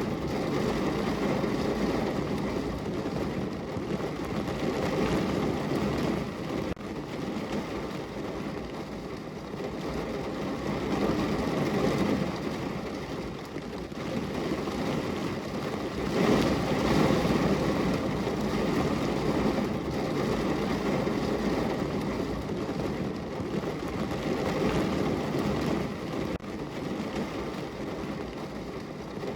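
Heavy rain falling on a car's roof and body, heard from inside the car: a dense, steady patter that swells louder for a couple of seconds about sixteen seconds in.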